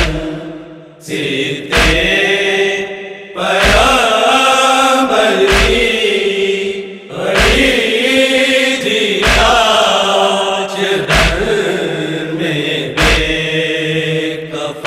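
Urdu noha, a Shia mourning lament, chanted by a party of reciters in long, drawn-out phrases, with a low thump keeping time about every two seconds.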